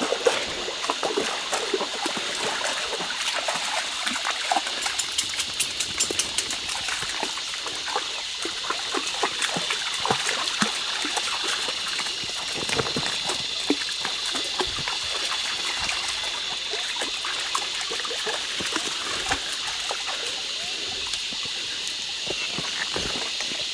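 Creek water trickling steadily, with frequent small splashes and sloshes from dogs wading through a shallow pool.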